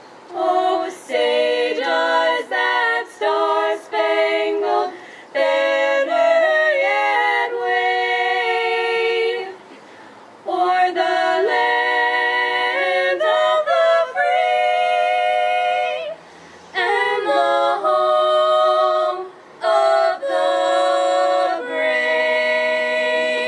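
A cappella vocal group singing in close harmony: several voices hold chords together in phrases broken by short pauses.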